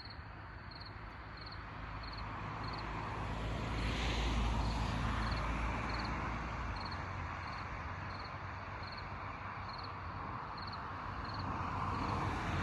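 An insect chirping steadily, about one and a half high short chirps a second, over a broad rushing noise with a low rumble that swells about four seconds in and again near the end.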